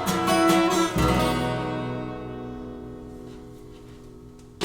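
Live acoustic band ending a song: acoustic guitar strums its last strokes, then a final chord with bass is struck about a second in and left to ring out, fading slowly.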